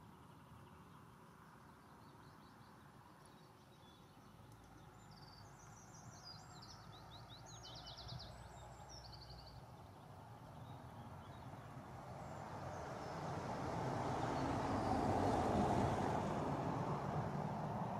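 Outdoor ambience with a small bird singing a short run of quick, high chirps and trills about halfway through. Then a broad rushing noise swells over several seconds and is loudest near the end.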